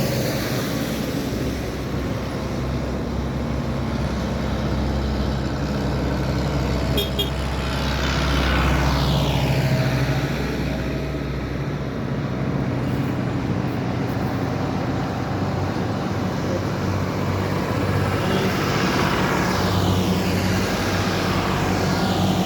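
Tractor engines running as a line of tractors drives past on the road, one after another. Each passes with a falling sweep in pitch as it goes by.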